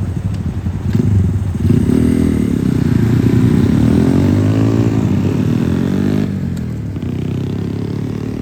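A motorcycle engine running close by, its pitch rising and falling, loudest from about two to six seconds in, then dropping back to a lower, steadier level.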